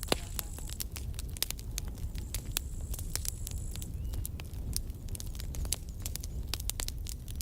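Campfire burning, crackling with irregular sharp pops of the wood, the loudest just at the start, over a low steady rumble.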